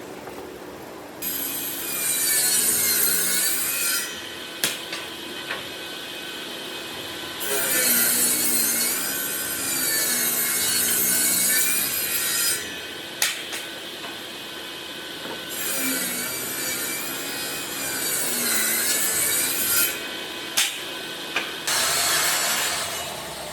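Hand-held power tool working wood in three long passes. Its motor whine dips and recovers in pitch as the tool bites into the wood, with a few sharp clicks between passes and a short rasping burst near the end.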